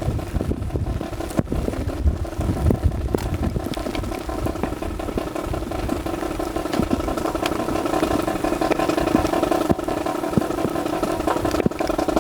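A steady engine-like drone with several tones held throughout, over scattered short clacks and knocks; the drone drops away right at the end.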